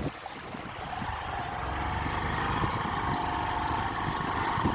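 Motorbike engine running steadily on the move, growing a little louder over the first couple of seconds.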